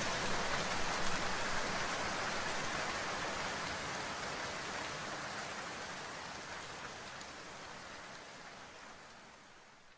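Steady rain, fading out slowly and evenly until it is almost gone at the end.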